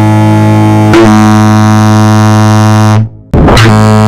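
Giant air horn blasting a very loud, steady low note, heard from behind the horn. The blast cuts off about three seconds in and fires again a moment later.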